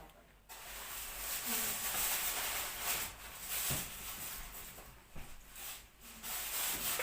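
Soft whispered speech, a prayer said under the breath: an uneven hiss that comes and goes like syllables, with hardly any voice in it.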